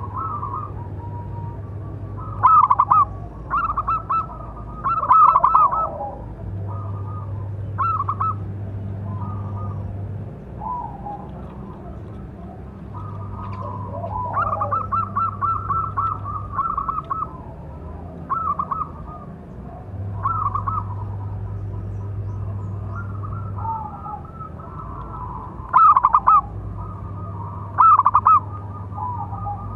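Zebra dove (perkutut) cooing: repeated phrases of rapid, staccato notes, some phrases clearly louder than others.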